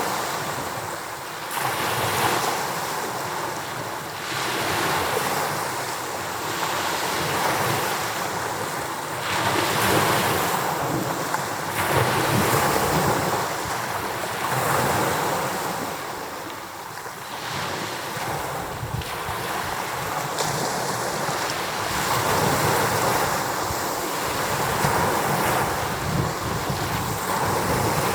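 Rough sea with waves pounding the shore, in a strong wind that buffets the microphone. The surf swells and eases every few seconds.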